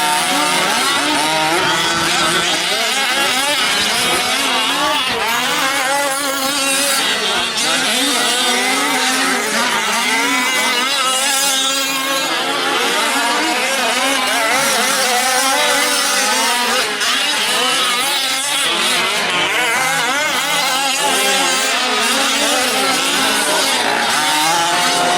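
Several 1/5-scale gas RC trucks' small two-stroke engines racing together, their overlapping pitches constantly rising and falling as the drivers throttle up and off.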